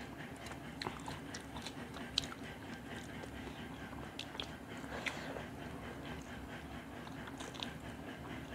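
Close-miked eating sounds of fish curry and rice eaten by hand: wet chewing and lip-smacking with many small scattered clicks.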